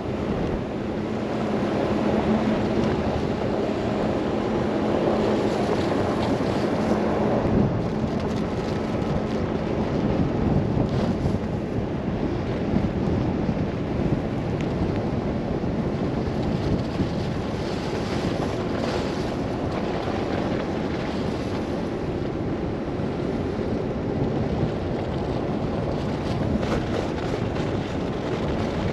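Blizzard wind rushing and gusting around a moving car, with a faint steady low hum during the first several seconds.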